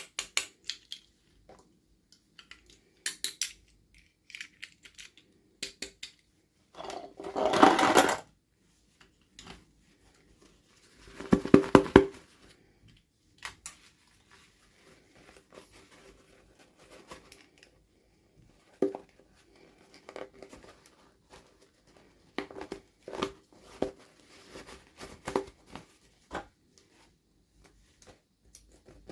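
Hands handling a doll and its packaging: scattered small clicks and taps, with two louder crinkling, tearing bursts, one about seven seconds in and one about eleven seconds in.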